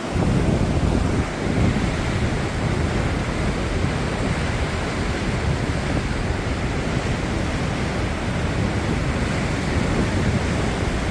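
Whitewater river rapids rushing steadily, with wind buffeting the microphone and adding a heavy low rumble.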